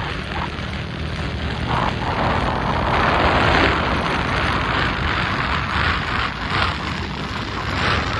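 Wind rushing and buffeting over the microphone on a moving motorcycle, surging louder around three to four seconds in, with the motorcycle's engine running steadily underneath.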